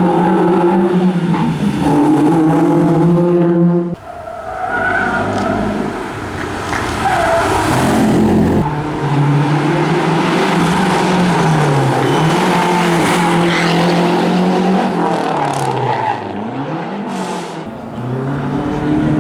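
Historic rally cars' engines running hard on a stage, revving up and dropping back again and again through gear changes, with an abrupt cut to another car about four seconds in.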